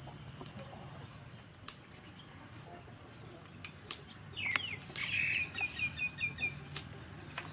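A bird calling past the middle: one curved chirp, then a quick run of about seven short, evenly spaced chirps. Faint scattered clicks and scrapes from a metal hand peeler stripping a potato's skin come and go.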